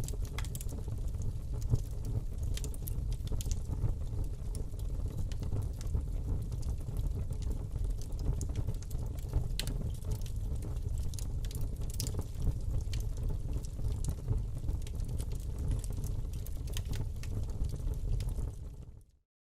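Wood fire burning in a fireplace: a steady low rumble of flames with many scattered crackles and pops. Near the end the sound fades out to a moment of silence, then comes back.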